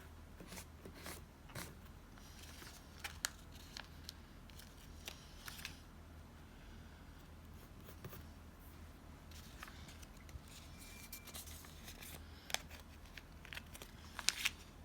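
Small scissors snipping paper in a series of irregular cuts, with scattered clicks and rustling of paper and tape being handled.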